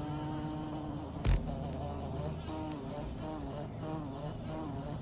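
A bee buzzing steadily, its pitch wavering up and down, with one sharp thump a little over a second in.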